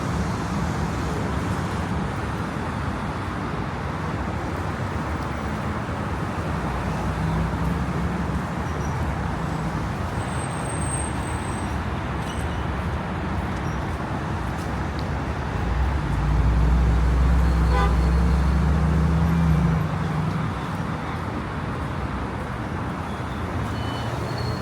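Steady road traffic noise from city streets, with a louder low rumble for about four seconds two-thirds of the way through, as a heavier vehicle passes.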